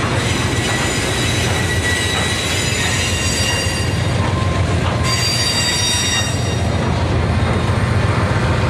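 Freight train of loaded hopper cars rolling past: a steady rumble with high-pitched wheel squeal.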